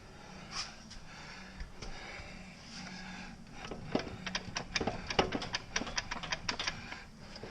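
A quick, irregular run of about fifteen sharp clicks and light knocks in the second half, over a steady low hum, while a Jeep transmission is being worked into place against the engine.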